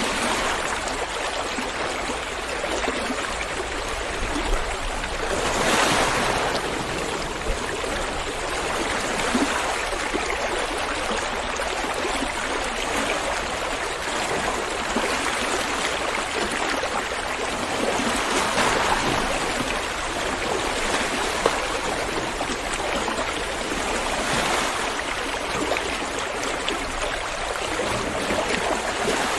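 River water flowing: a steady rushing of water that swells a little louder a few times.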